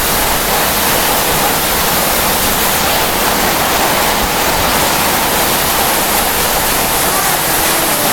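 Strong storm wind, a steady loud rush of noise in a summer thunderstorm, with the hail already over.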